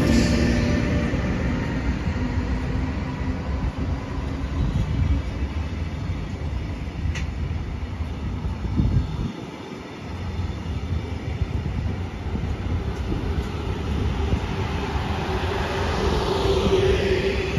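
A train running through a station close by: a steady rumble of wheels on rails, with one sharp click about seven seconds in and a whine that rises in pitch near the end.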